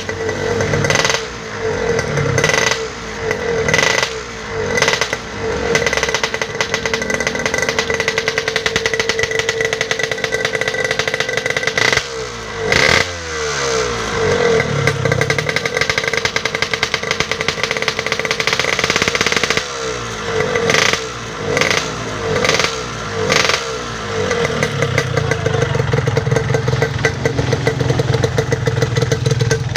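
Yamaha RX-King's two-stroke single-cylinder engine idling through a custom sheet-metal 'blekan truntung' exhaust, blipped with short revs: several in the first few seconds, two about twelve seconds in, and three more about two-thirds of the way through.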